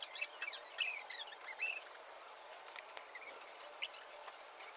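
Small birds chirping in quick, high, short calls, most busily in the first two seconds, with a few faint ticks between them.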